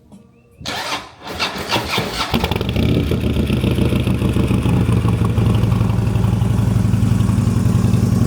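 Harley-Davidson CVO's V-twin engine being started: about a second and a half of cranking from under a second in, then it catches and settles into a steady idle.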